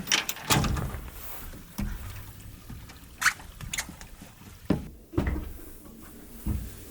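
Irregular knocks, clunks and sharp clicks of things being handled, about half a dozen in a few seconds.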